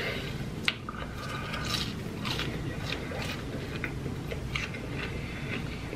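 Close-miked chewing of a mouthful of fast-food crinkle fries: irregular soft crunches and mouth clicks.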